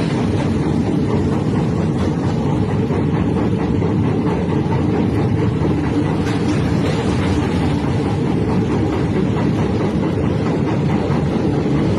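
Steady, loud rushing of a river in flood pouring through a barrage.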